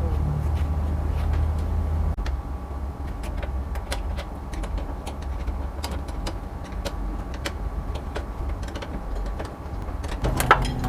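A steady low mechanical hum with scattered light clicks and taps; the hum drops a little about two seconds in, and a second, higher-pitched hum starts near the end.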